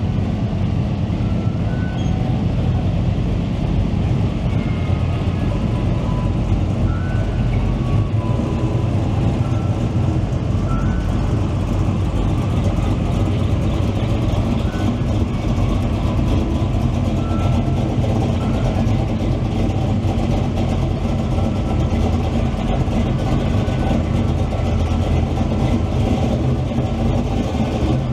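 Engines of classic cars and trucks running slowly at low revs, a steady deep exhaust note without swells or revving.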